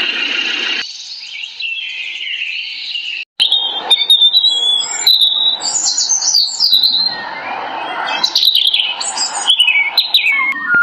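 Birds chirping and twittering in quick, high, overlapping calls, broken by a brief gap about three seconds in.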